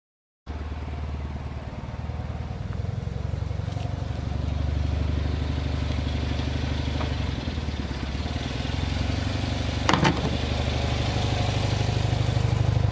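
Polski Fiat 126p's air-cooled two-cylinder engine running steadily at low revs, slowly getting a little louder, with a brief knock about ten seconds in.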